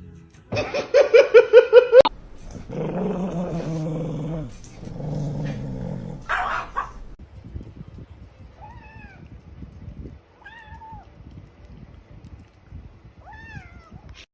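Pet animal vocalising: a loud quick run of pitched yapping calls, then two drawn-out cries, then a few short, soft, arched calls.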